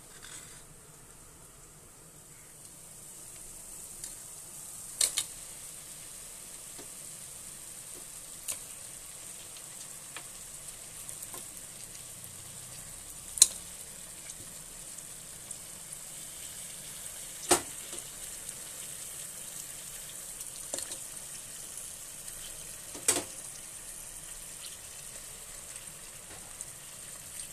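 Marinated chicken pieces sizzling in hot oil in a pressure cooker: a steady high hiss that grows a little louder a few seconds in. A few sharp clicks of a metal spoon against the pot come as the chicken is stirred.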